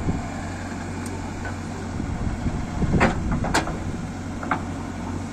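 Diesel engine of a JCB 3DX backhoe loader running steadily at a low hum, with a few short sharp knocks from about three seconds in.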